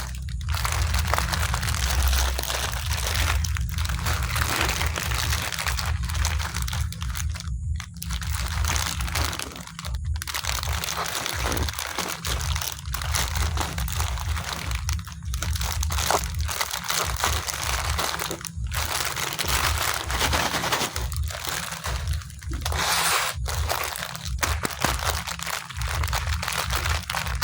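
Crispy biscuits being bitten and chewed close to the microphone, with continuous crunching and crackling, mixed with crinkling of the wrapper.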